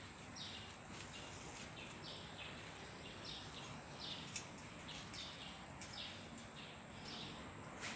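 Faint outdoor ambience: short, high chirps repeating every half second to a second, typical of small birds calling in the background, over a thin, steady high-pitched tone.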